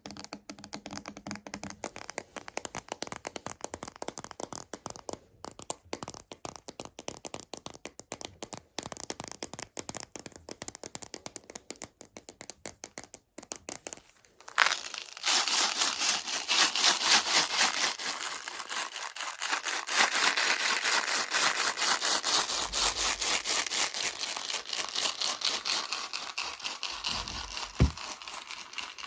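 Rapid fingertip tapping and clicking on a large plastic container of Meiji Choco Baby chocolates. About halfway through it changes abruptly to a louder, continuous dense rattle of the small candies moving against the plastic.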